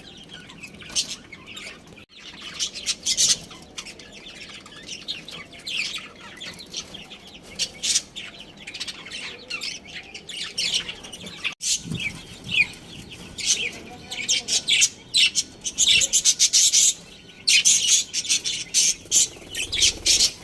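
Budgerigars chirping and chattering: many quick high chirps overlapping, growing into busier, louder chatter in the last few seconds.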